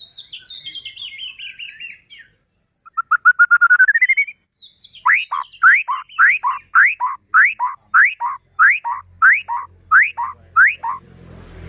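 White-rumped shama (murai batu) singing loudly. It begins with a quick falling phrase, then a fast rising trill, then a run of about eleven rising whistled notes, roughly two a second.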